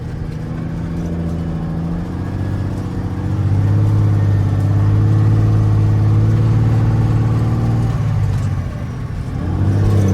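Truck engine heard from inside the cab, pulling steadily under load. It grows louder about three seconds in, eases off about eight seconds in, and picks up again at the end, as if rising and falling with the throttle between shifts.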